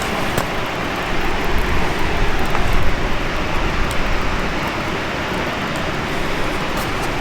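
A steady low rumble, with a few short, sharp crackles of a wood campfire scattered through it.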